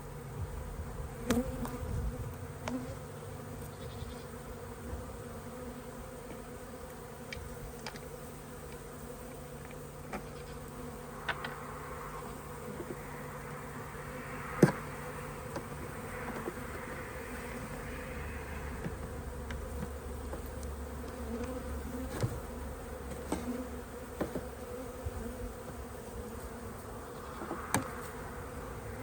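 Honey bees buzzing steadily around an opened hive, with a few short clicks and knocks, the sharpest about halfway through.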